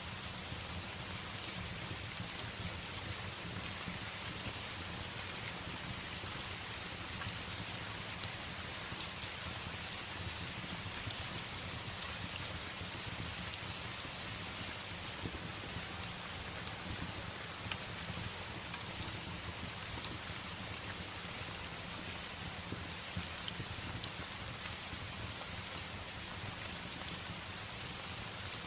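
Steady rain beating on a window, with a low, even rumble and scattered faint sharp crackles from a fireplace.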